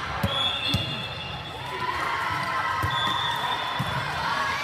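A volleyball thudding on a gym floor, four short bounces a second or so apart, over the background of voices in an echoing gym.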